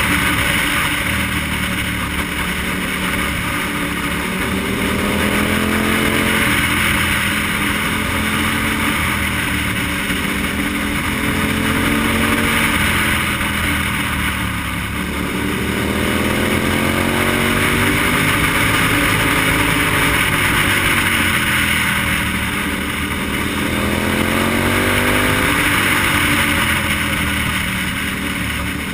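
KTM motorcycle engine heard from on board, its pitch falling and rising again several times as the throttle is rolled off and opened through the bends, under a steady rush of wind on the microphone.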